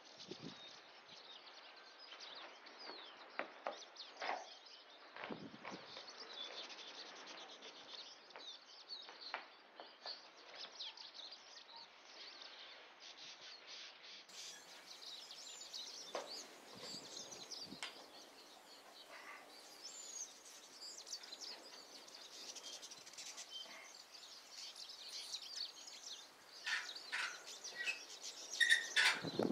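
Several birds chirping and calling over faint, steady outdoor background noise, with a few louder calls near the end.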